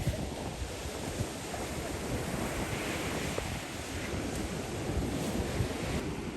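Sea surf washing onto the shore, swelling about three seconds in, with wind buffeting the microphone.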